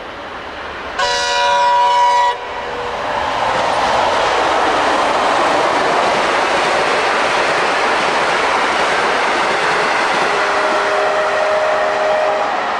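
A diesel locomotive's horn sounds once for just over a second, a chord of several notes. It is followed by the steady loud rumble and wheel noise of the West Coast Railway passenger train passing close by. Near the end a fainter two-note tone holds for about two seconds.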